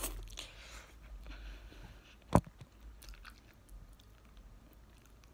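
A person eating spaghetti close to the microphone: quiet chewing and mouth sounds with small faint clicks, and one sharp click a little over two seconds in.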